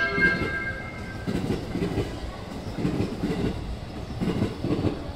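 Train wheels clacking over rail joints at a slow pace, in paired knocks that come back about once a second.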